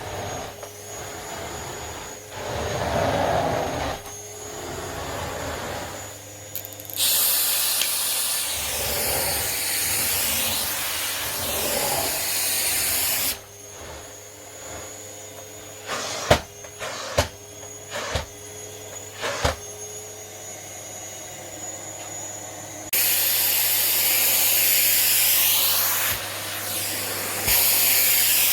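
Rowenta RO6835 EA vacuum cleaner running with a steady hum and faint high whine. Twice it swells into a loud airy rush of suction lasting several seconds, and a few sharp clicks come in between.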